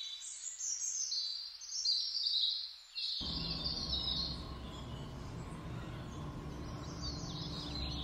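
Small birds chirping in quick, high, twittering bursts. About three seconds in, a steady low hum starts abruptly under them.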